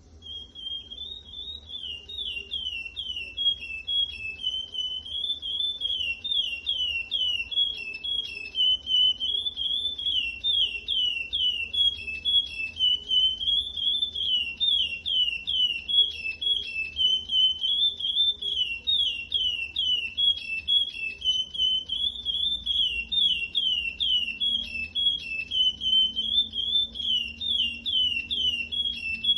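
Curió (chestnut-bellied seed-finch) singing a long unbroken song of rapid whistled notes that sweep up and down, phrases running into one another without pause and getting louder over the first few seconds.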